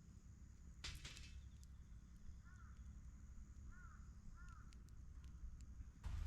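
A crow cawing faintly, several short caws in the middle, over a low steady outdoor rumble. A brief rustle comes about a second in.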